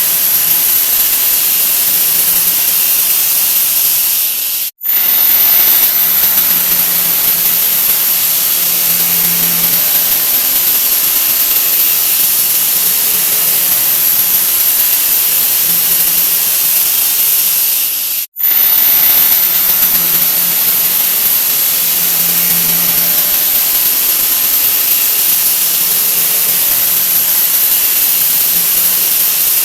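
A 'wah wah' sound effect sped up so many times over that it has become a loud, steady, hissing rush, like a jet engine. It cuts out for an instant twice, about five seconds in and about eighteen seconds in.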